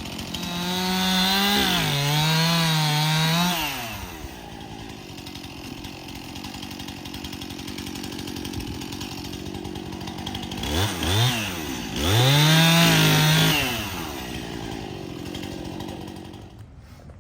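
Chainsaw run up to high revs twice, each run lasting a few seconds, with the pitch wavering under load as it cuts through a log. There are a couple of short blips of the throttle in between, and it runs lower between the cuts. The engine stops near the end.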